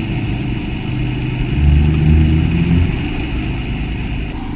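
A motor engine running with a steady low hum that swells louder for about a second midway.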